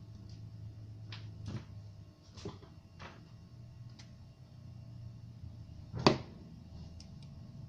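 A steady low hum runs underneath several short knocks and clicks from handling hardware on a workbench. The loudest knock comes about six seconds in.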